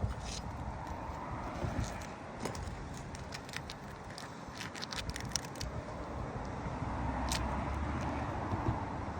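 Short clicks and scrapes of a tool working under asphalt roof shingles to free nails, busiest in the middle. A low steady rumble comes up in the second half.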